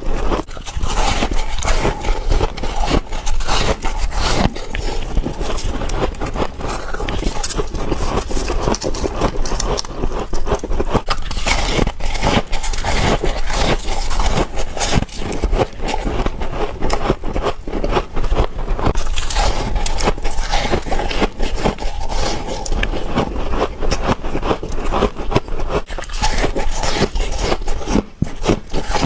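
Close-up crunching bites of freezer frost, a dense, continuous crackling as the soft ice is bitten and chewed.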